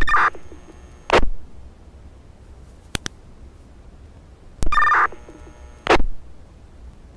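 Fire department two-way radio channel keying up without speech: a short two-tone data beep as a radio keys at the start and again near 5 s. Each beep is followed about a second later by a brief burst of squelch noise as the radio unkeys. A sharp click comes near 3 s.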